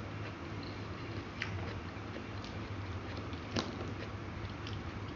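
Close-up eating sounds: a person chewing food, with a few small mouth and utensil clicks, over a steady low hum.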